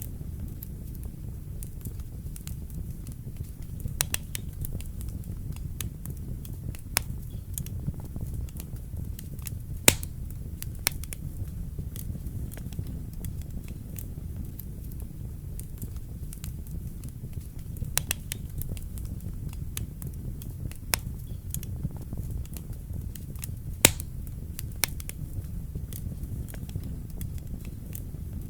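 Wood fire burning in a fireplace: a steady low rumble with scattered sharp pops and crackles, the loudest about ten seconds in and near the end.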